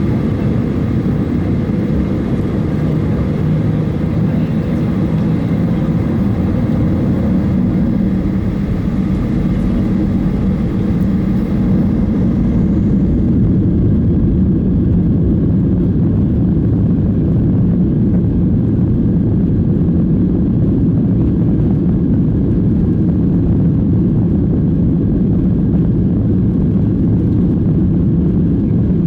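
Boeing 737-800's CFM56 jet engines running at take-off power, heard from inside the cabin as a loud, steady, deep roar. About 13 s in, the hiss at the top falls away and the roar grows a little louder.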